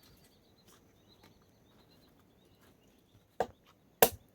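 Two sharp chopping strikes near the end, like a blade or axe cutting into wood, after a quiet stretch with faint high chirps.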